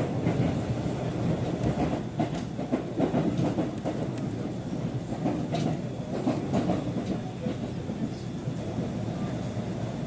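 Aichi Loop Railway train running, heard from inside the carriage: a steady rumble with faint clicks of the wheels over rail joints.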